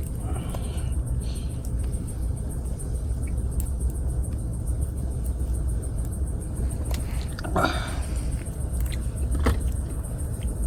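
Campfire burning, with scattered sharp pops and crackles over a steady low rumble. A louder, longer noise comes about seven and a half seconds in, and another sharp crack about two seconds later.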